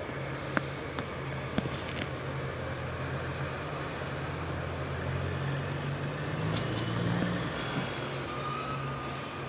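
Truck engine running steadily, with two sharp clicks in the first two seconds and the engine note swelling briefly about seven seconds in.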